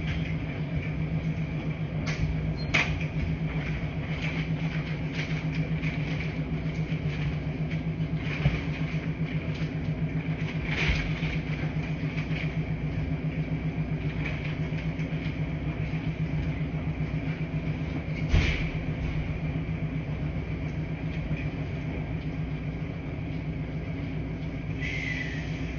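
Laundry machine running: a steady low hum that pulses evenly, with a few sharp knocks and clicks, and a short high chirp near the end.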